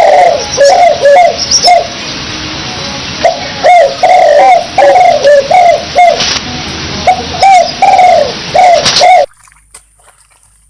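A bird calling loudly in quick runs of short, arched notes, stopping abruptly about nine seconds in.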